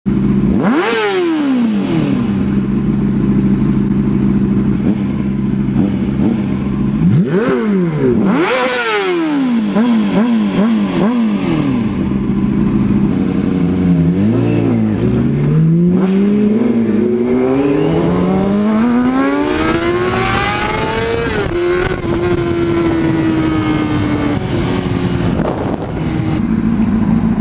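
Ferrari and motorcycle engines idling and being revved: a sharp throttle blip about a second in, a quick run of blips around the middle, then longer climbs in revs, each rising in steps.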